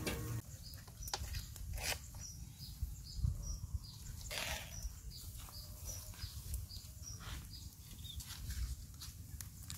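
A bird repeating a short, high, falling chirp about three times a second, over a steady low rumble, with a few sharp clicks.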